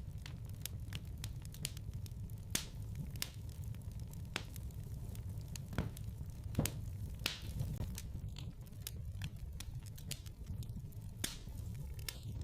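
Wood fire crackling in a fireplace: irregular pops and snaps over a low steady rumble of the flames.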